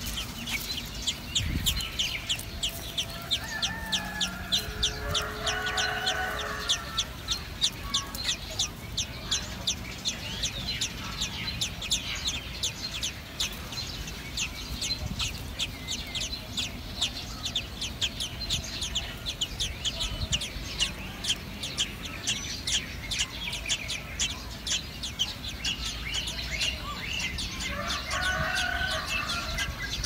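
A steady, rapid series of sharp clicking calls, about three a second, from birds at a common blackbird's nest with begging nestlings. A longer pitched call sounds twice in the background, a few seconds in and again near the end.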